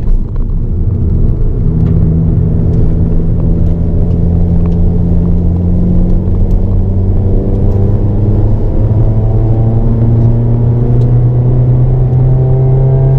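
Hyundai Avante N (Elantra N) 2.0-litre turbocharged four-cylinder heard from inside the cabin, pulling under throttle, its pitch holding and then climbing slowly as the revs build in third gear.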